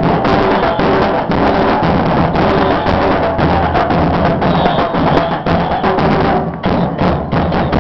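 Murga percussion band drumming, bass drums with cymbals (bombos con platillo) beating a dense, driving rhythm.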